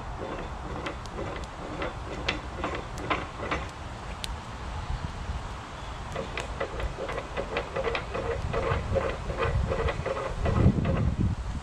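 An old steel barbecue, its post set in the ground, being rocked back and forth by hand, giving a rapid rhythmic creaking and knocking of metal several times a second as it works in its mounting, the pipe heated by coals to try to free it.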